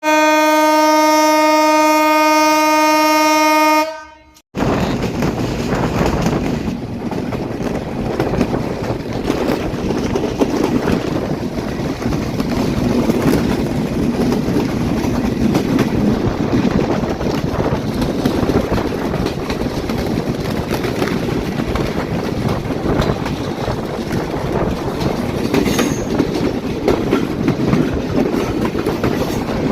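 A diesel locomotive horn blows one long steady note for about four seconds and cuts off abruptly. After a brief break comes the steady rumble and clatter of a broad-gauge intercity train running over the rails.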